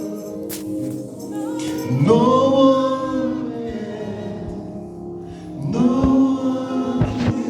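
Gospel choir singing, holding long sung phrases; new phrases swell in about two seconds in and again near six seconds.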